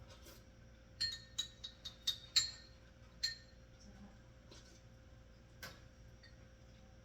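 Light ringing clinks of hard kitchenware, a quick run of about seven between one and three and a half seconds in, then one more a little before six seconds.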